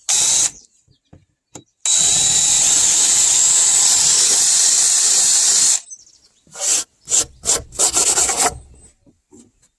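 Electric power tool working into wood. It runs briefly at the start, then runs steadily with a constant high whine for about four seconds, followed by a quick series of short rasping strokes.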